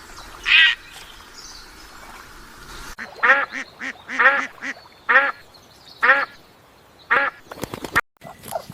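A single short harsh bird call near the start, then a duck quacking: about five loud quacks roughly a second apart, with softer quacks between them, beginning about three seconds in.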